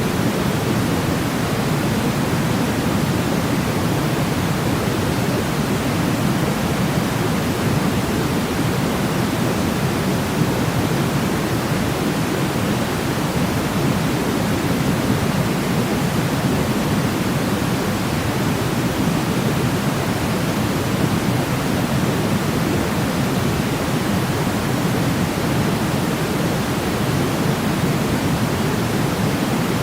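Sleep-aid noise: a steady, even hiss with a deep, low-weighted rush, like pink noise, that never changes.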